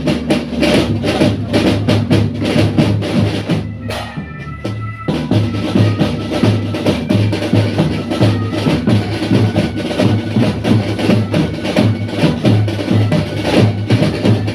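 A school marching drum band playing a steady beat on drums, with a strong bass drum pulse and fast snare strokes. Around four seconds in the drumming thins for about a second, then the full beat comes back.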